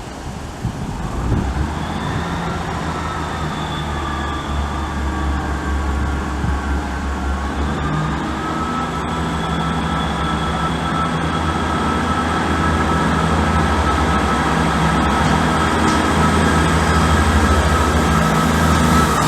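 A train moving through a station: a heavy low engine rumble grows steadily louder, with sustained high whining tones over it.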